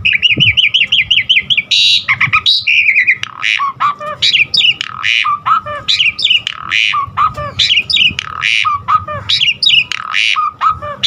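Javan pied starling (jalak suren) singing a fast, varied song packed with borrowed notes of other birds: a rapid even chatter at the start, then harsh squawks mixed with sliding whistles, without a break.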